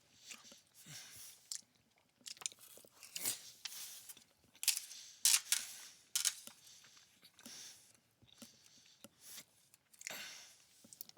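Close-up chewing and mouth sounds of a person eating chicken alfredo penne pasta: irregular wet smacks and clicks, loudest about five seconds in.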